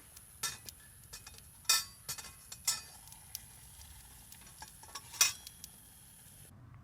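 Metal objects clinking and knocking together, about half a dozen sharp strikes with a short ring, two of them louder than the rest. A faint high whine in the background cuts off near the end.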